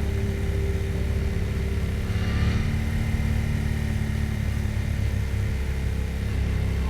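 A 2024 Yamaha MT-07's parallel-twin engine running steadily while the bike is ridden, with a brief rush of hiss about two and a half seconds in.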